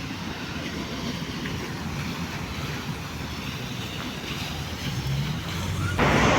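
Steady outdoor background noise with a low rumble. It turns suddenly louder and brighter about six seconds in.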